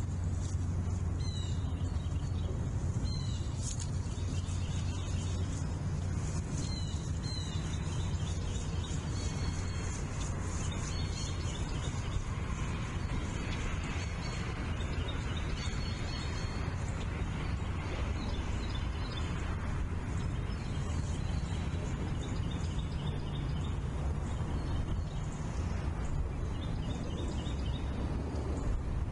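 Birds chirping in short calls that repeat every second or two, over a steady low hum.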